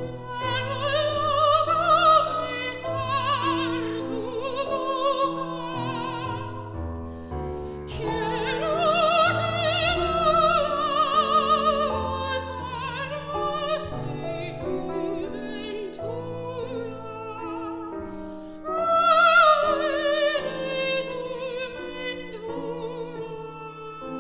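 Classical soprano singing with wide operatic vibrato, accompanied by piano, in three long phrases: one to about seven seconds in, one from about eight to sixteen seconds, and a last one from about eighteen seconds.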